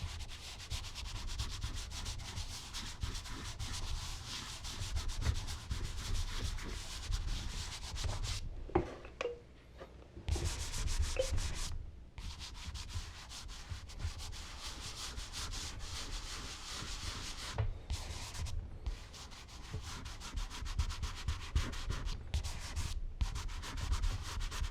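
Charcoal being rubbed into smooth Bristol paper in rapid back-and-forth strokes, a dry scratchy rubbing sound. It stops briefly a few times, the longest pause about a third of the way in.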